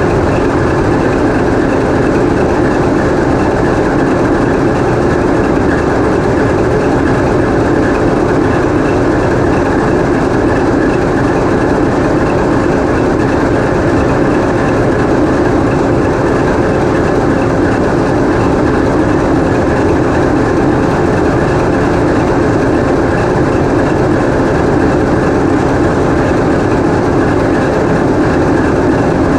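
TEP70 passenger diesel locomotive's 16-cylinder diesel engine running steadily, heard from inside the engine room: a loud, even din that does not change.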